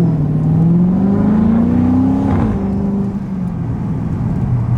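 Dodge Scat Pack's 392 HEMI V8 under throttle, the engine note climbing steadily for about two seconds, then dropping back and settling low as the throttle is lifted.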